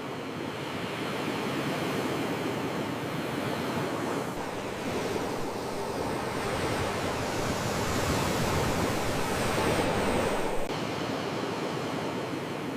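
Sea waves surging and washing ashore: a continuous rush of surf that swells to its loudest a little before ten seconds in, then drops back abruptly.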